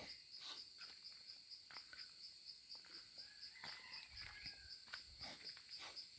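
Faint, steady high-pitched insect chorus with an even pulsing trill, and a few faint scattered clicks and rustles.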